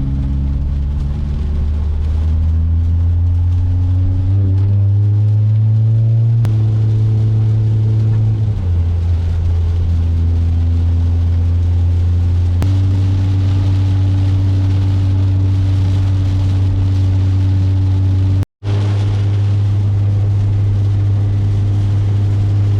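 2008 Acura TSX's K24 four-cylinder engine, revving up with rising pitch under acceleration, then running at a steady drone with a few step changes in pitch. The sound cuts out for an instant about two-thirds of the way through.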